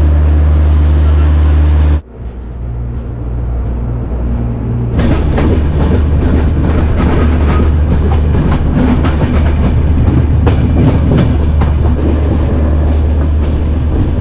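Passenger express train running at speed, heard from an open coach door: wheels clacking irregularly over the rail joints under a steady rush of wind and running noise. It builds up over the first few seconds after a cut, and before the cut there is about two seconds of a steady low hum.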